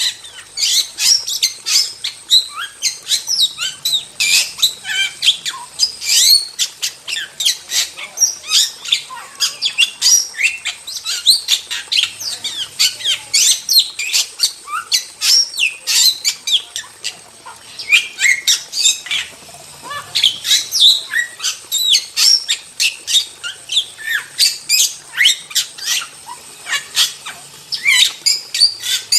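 Starling singing vigorously: a dense, unbroken run of sharp, high chirps, squawks and quick whistled glides, several notes a second.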